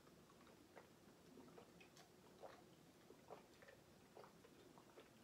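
Near silence with faint, irregular small clicks and smacks of someone quietly chewing food.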